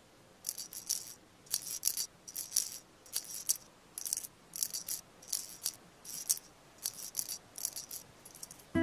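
A shaker or rattle is shaken in a steady, gentle rhythm, with a short cluster of two or three high, hissy shakes about every three-quarters of a second. It is part of a soundtrack's percussion. Right at the end, a tuned melody begins.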